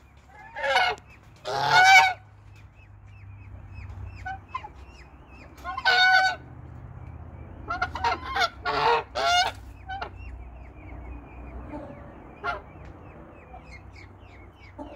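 A large bird honks loudly six times: twice in the first two seconds, once around six seconds, and three times close together around eight to nine and a half seconds. Beneath the honks, peachicks keep up a quick, high peeping.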